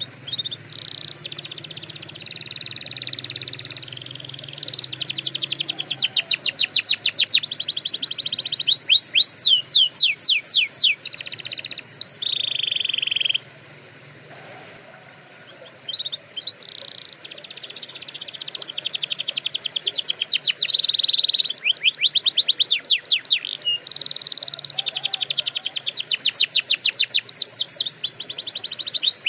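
Domestic canary singing: long phrases of fast trills and rapid repeated sweeping notes, with a pause of about two seconds near the middle before the song starts again.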